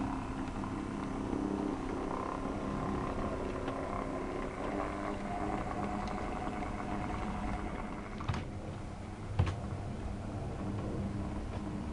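OO gauge model diesel locomotive running on the layout, a steady mechanical hum with a few held tones. Two sharp clicks come about eight and nine and a half seconds in, the second the louder.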